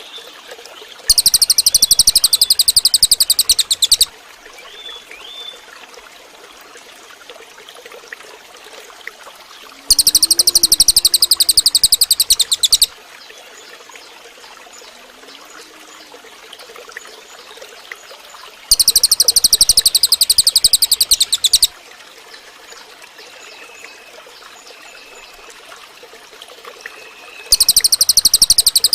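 Cililin bird singing a loud, very fast, high-pitched rattling trill of about three seconds, repeated four times at roughly nine-second intervals. A faint trickle of running water and a few soft chirps fill the gaps.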